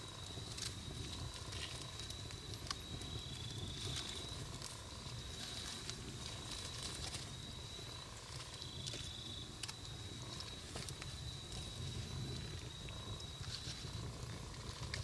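Wood campfire burning: a low, steady rumble of flames with scattered sharp crackles and pops from the burning wood. A faint, steady high whine runs under it, dipping slightly in pitch now and then.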